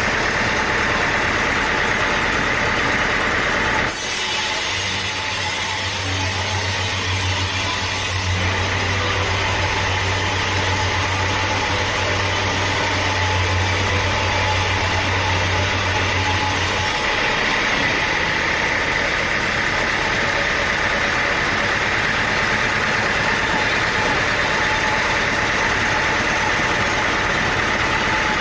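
Sawmill engine running steadily. About four seconds in the sound changes abruptly, with a steady low hum added, and it goes back to the earlier sound about seventeen seconds in.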